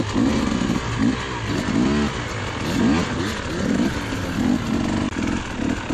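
Enduro dirt bike engine revving up and down over and over, its pitch rising and falling about once or twice a second, as the bike is ridden.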